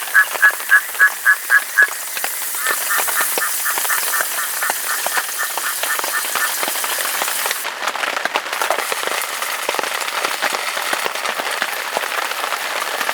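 Steady rain pattering, with a frog calling in rapid runs of pulsed notes, about five a second: one run in the first two seconds and a fainter run from about three to seven seconds in.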